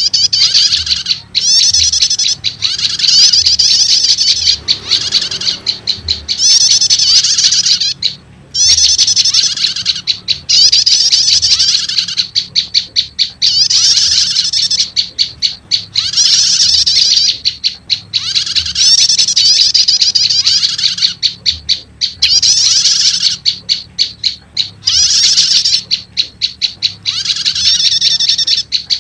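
Olive-backed tailorbird (prenjak lumut) lure calls: loud, rapid, high-pitched chattering trills in repeated bursts of a second or two with brief gaps between them.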